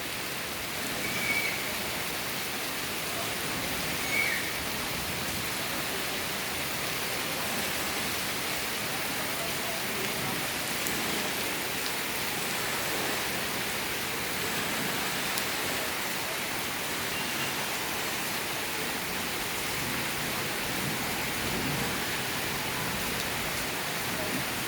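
Heavy monsoon-type downpour falling steadily, a dense continuous hiss of rain on surfaces. About one and four seconds in, two brief high tones sound over it.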